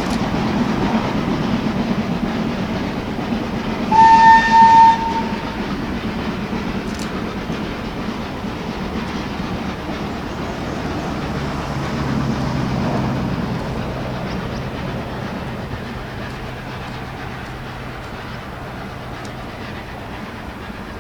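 A steam locomotive and its train running past, the rumble slowly fading away. About four seconds in the engine gives a short double blast on its whistle.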